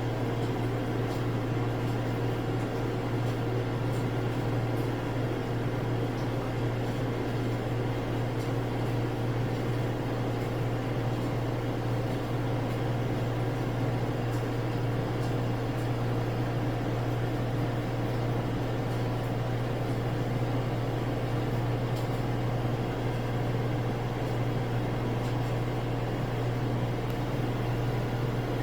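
Samsung AddWash front-loading washing machine in its final spin, ramping up through about 1150 to 1200 RPM: a steady whirring hum from the spinning drum and motor, with the drain pump still running while the speed climbs.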